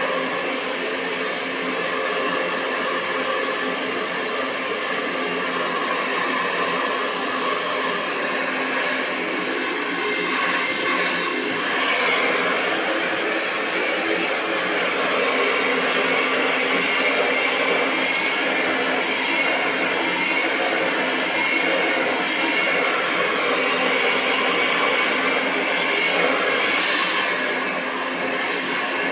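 Hair dryer blowing a steady, continuous stream of air, a whooshing rush with a steady motor whine in it and small shifts in tone along the way.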